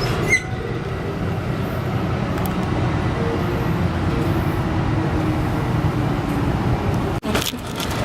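Steady low rumble of an Amtrak San Joaquin passenger train running on the rails, heard from inside a car as it comes into the station. It breaks off abruptly about seven seconds in.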